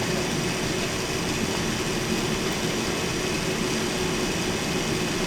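Steady cabin noise inside an Airbus A380 after landing, before it has come to a stop, with a faint steady hum running through it.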